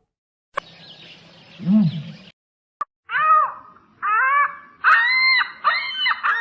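Short animal calls, each rising and falling in pitch: a single low call about two seconds in, then a quick run of higher calls from about three seconds on.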